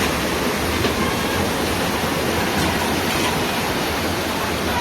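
Rushing floodwater, a loud steady torrent from a flash flood after heavy rain.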